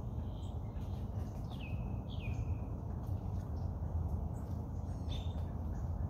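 Birds calling: two short calls that slide down in pitch, about a second and a half and two seconds in, with a few briefer calls before and near the end, over a steady low rumble of breeze.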